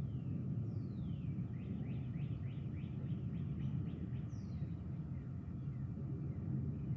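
A songbird singing a long falling whistle, then a run of about nine quick falling notes, then another falling whistle, over a steady low rumble.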